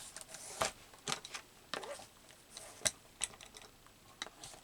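Craft supplies being handled and put away into storage: an irregular run of light clicks, taps and rustles, the sharpest tap about three seconds in.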